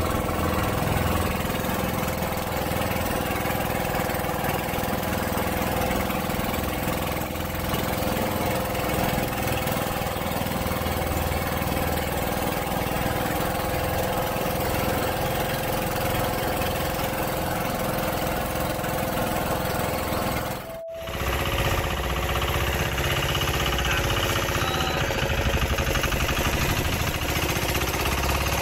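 Engine of a motorized outrigger fishing boat (bangka) running steadily while under way, over the wash of water and wind. The sound drops out briefly once, about two-thirds of the way through, then the same drone carries on.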